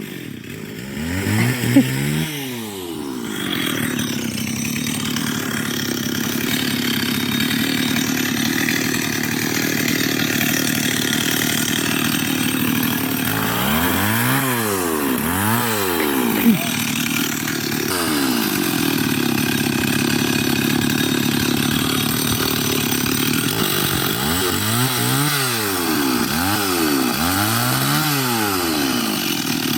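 Two-stroke chainsaw cutting a dry jurema tree. The engine runs steadily, with bursts where it revs up and drops back again and again, about halfway through and again in the last few seconds.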